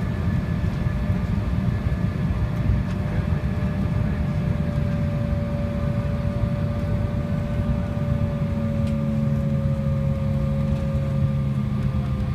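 Airliner jet engines running, heard from inside the passenger cabin: a steady low rumble with a whine that drifts slowly down in pitch, and a lower hum that joins about two-thirds of the way through.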